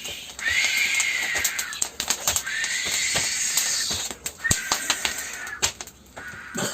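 A person imitating wind with the mouth: three long, breathy whooshes, each about a second and a half, with a faint whistling tone, as a pantomime of walking against the wind.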